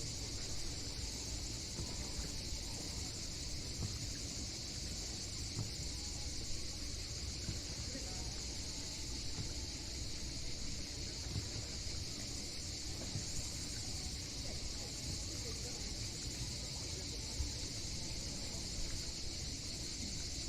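A steady, high insect chorus of the summer kind, unbroken throughout, over a low, uneven rumble from the waves.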